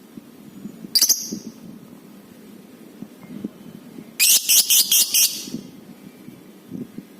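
Lovebird calling: one short shrill call about a second in, then a quick run of about six shrill notes a little past the middle.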